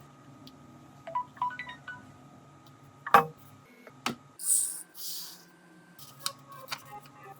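A few short electronic beep tones in quick succession, then a sharp click, a second click, two brief hisses and a scatter of small clicks near the end.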